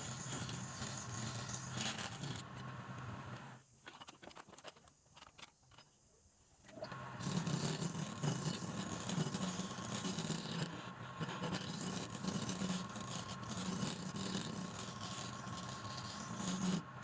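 Woodturning lathe running, a turning tool scraping the spinning workpiece. The noise drops away for about three seconds partway through, leaving a few clicks, then starts again.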